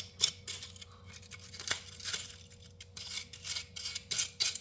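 Irregular scrubbing and rubbing strokes on dirty angle grinder parts, with a few small clicks, as caked gunk is cleaned off.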